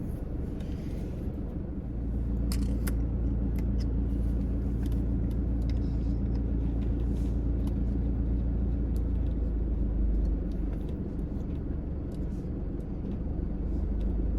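Car's steady low rumble, with a few brief faint clicks.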